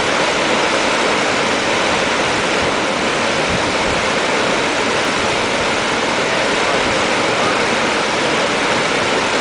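Loud, steady rushing noise with no distinct events, like running water or strong wind.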